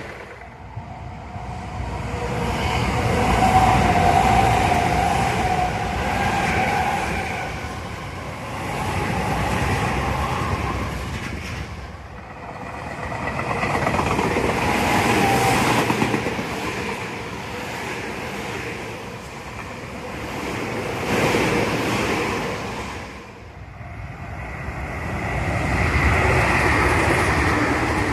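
Tobu Tojo Line electric commuter trains passing one after another, their sound swelling and fading, with a steady motor whine over the rumble and clatter of wheels on rail. It breaks off abruptly twice, where one pass gives way to the next.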